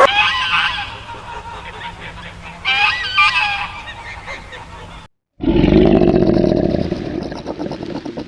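Geese honking, two short runs of calls. After a sudden cut, a different animal gives one long, low call that fades away near the end.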